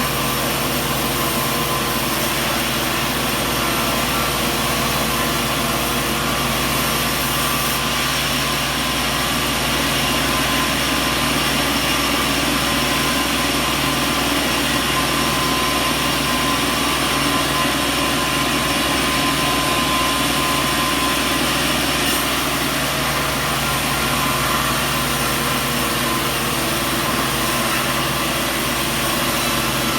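Sawmill machinery running steadily: a constant mechanical drone with a fixed whine, holding at one pitch and level throughout with no cutting surges or knocks.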